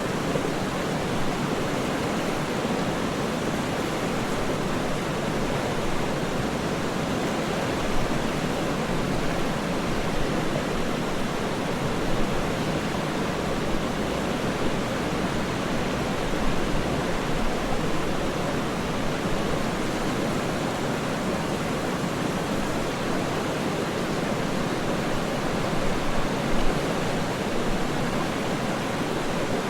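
Waterfall rushing in an even, unbroken roar of falling water, with no separate splashes or other sounds.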